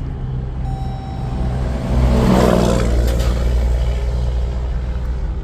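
A 2022 Jeep Grand Cherokee 4xe's gasoline engine, a 2.0-litre turbocharged four-cylinder, starting about two seconds in and settling into steady running, heard from inside the cabin. A brief steady tone sounds just before. The plug-in hybrid is dropping out of EV-only mode because the heating and cooling has been switched on.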